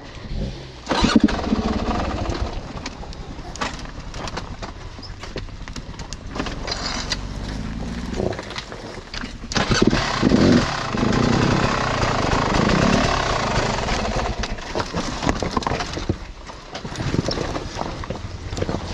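Mountain bike descending a rough, loose trail: a steady rush of wind and tyre noise broken by many rattles and knocks as the bike jolts over the ground.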